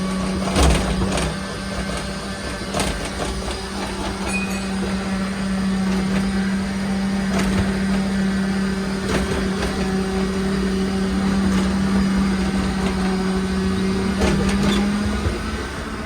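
Steady low machine hum, with a few scattered clicks and knocks over it.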